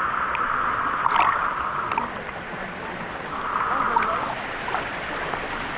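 Waterfall and river water rushing steadily, louder in stretches, with a few small splashes.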